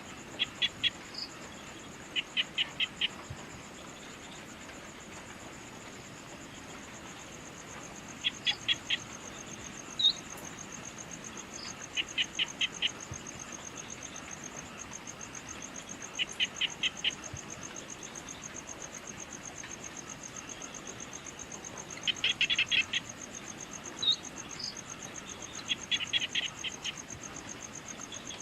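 Evening insect chorus: a steady, high, finely pulsing cricket-like trill. Over it, every few seconds, come loud, quick runs of four or five sharp chirps, with an odd single chirp between them.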